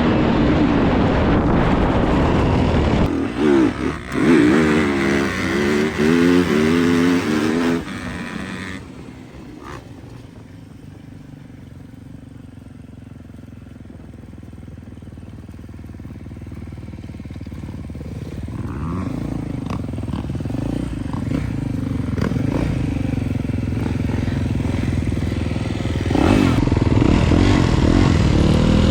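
An off-road engine revving hard close by, its pitch rising and falling with the throttle, then fading into the distance about eight seconds in. It stays faint for several seconds, grows louder as it comes back, and is loud and revving again near the end.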